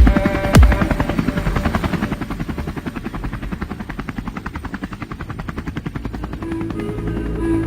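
A rapid, even chopping pulse, about ten beats a second, that fades through the middle and swells again near the end.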